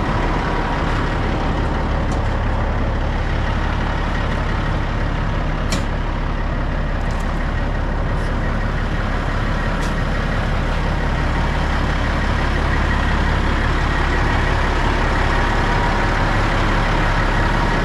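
Semi truck diesel engine idling with a steady low rumble, with a few faint sharp clicks in the middle.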